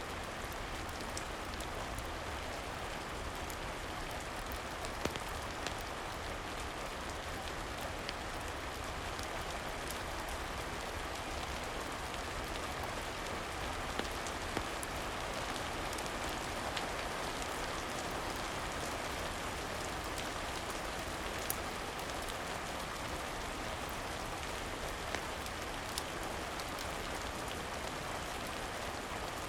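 Steady rain falling, an even hiss with a few sharp pops scattered through it.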